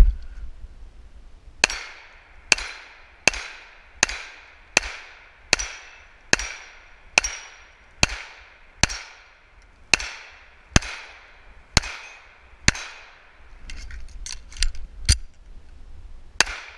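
Handgun shots fired one after another at a steady pace, roughly one a second, each with a short ringing echo. After a brief gap with a few lighter sharp ticks, two more shots follow near the end.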